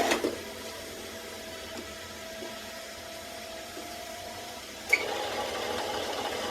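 A sharp knock, then a steady mechanical hum with a thin steady tone; just before five seconds in there is a click and the machine noise gets louder and stays on.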